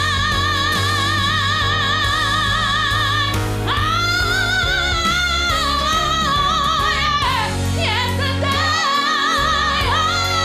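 Gospel song: a lead vocal holds a long high note with heavy vibrato, then slides up into new wavering runs about three and a half seconds in, over a band with a steady bass line.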